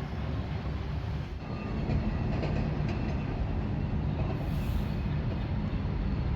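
Steady low rumble of a moving vehicle's engine and running noise, growing louder about a second and a half in.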